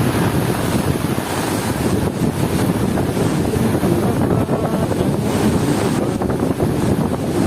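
Heavy rain and strong wind: a loud, steady rush of noise with gusts buffeting the microphone.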